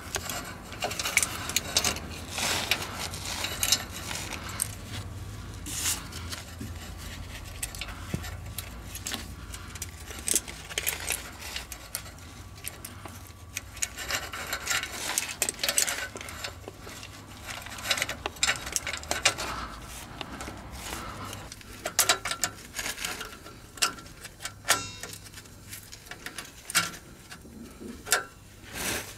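Exhaust pipe cutter pliers being worked on a steel exhaust tube: irregular metallic clicks, clinks and scrapes as the cutter is clamped and rocked around the pipe.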